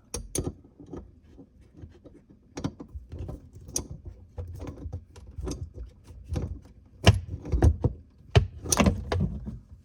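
Irregular metal clicks and knocks of a hand tool working a threaded water-line fitting as it is tightened onto a shutoff valve, growing louder and more clustered about two-thirds of the way through.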